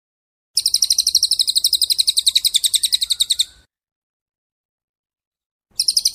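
A songbird giving a rapid, even trill of many quick high notes for about three seconds, then falling silent and starting a second, shorter trill near the end.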